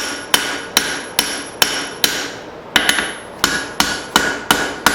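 Hand hammer striking hot leaf-spring steel on an anvil in an even rhythm, about two and a half blows a second, each blow ringing briefly, with a short pause just after two seconds. The smith is drawing out the taper of a cross peen hammer head.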